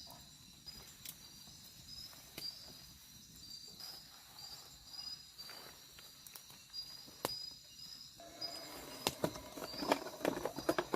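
Night insects chirping steadily in a pulsing high chorus. About eight seconds in, a low, rough animal call starts and grows louder: a howler monkey, which sounds like pig sounds.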